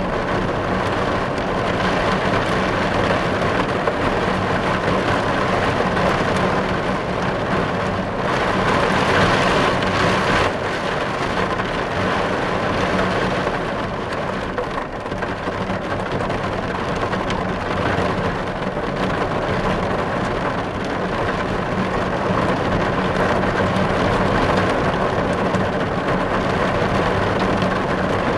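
Heavy rain falling on a car's windows and roof, heard from inside the car: a dense, steady hiss of rain that swells a little about nine seconds in.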